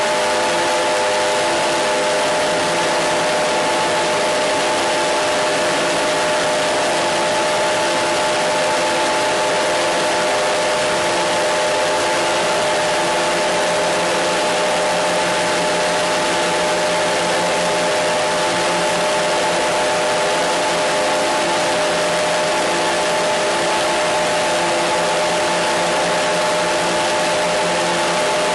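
Steady hissing noise with several steady humming tones beneath it, unchanging throughout.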